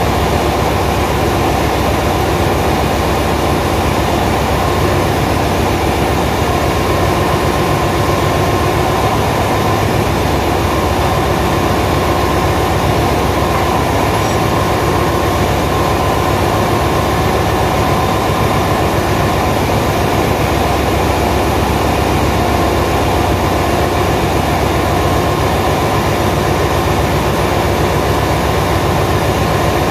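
Ship's engine-room machinery running: a loud, steady, unbroken drone with constant hums, without change or pauses.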